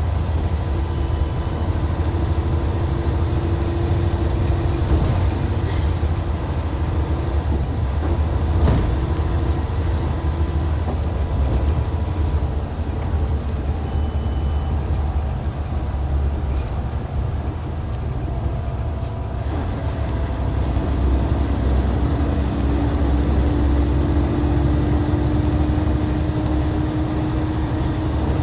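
Hyundai D6CC Powertec 380 inline-six diesel in a Hyundai Universe coach running under way with a steady low drone. Its note eases off around the middle, dips briefly, and then pulls again from about two-thirds of the way in with a slowly rising pitch.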